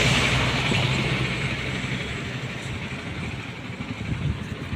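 A motor vehicle's engine and hiss passing close, then fading away over about the first two seconds and leaving a quieter low rumble.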